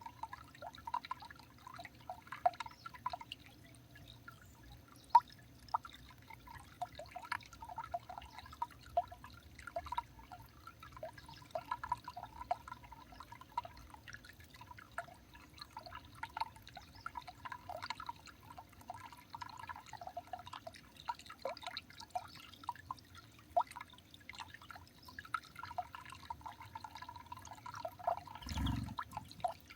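Water dripping irregularly in many short plinks, with one dull low thump near the end.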